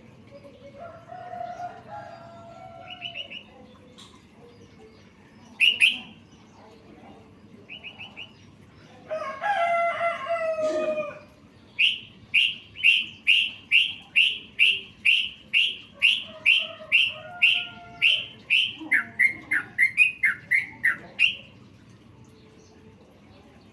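Songbird calls: scattered short chirps and a longer call about nine seconds in, then a fast series of about twenty sharp, slightly falling notes at about two a second.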